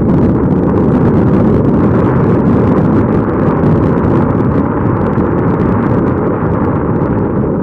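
Loud, steady rushing and rumbling of a moving vehicle, with wind buffeting the microphone.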